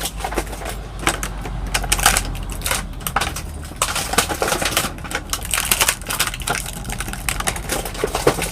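Plastic packaging crinkling and rustling in quick, irregular crackles as a toy figure's parts are pulled out of their wrapping by hand.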